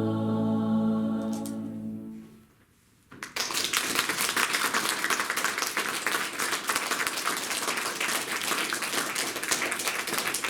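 Women's choir holding a final sustained chord, which fades out about two seconds in. After a short pause, an audience applauds.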